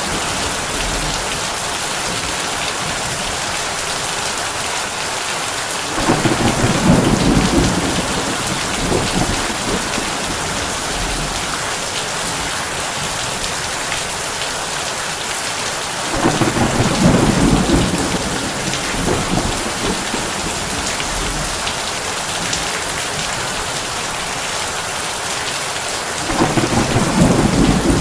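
Heavy rain falling steadily on a tin roof, with low thunder rumbling three times, each about two seconds long and evenly spaced about ten seconds apart.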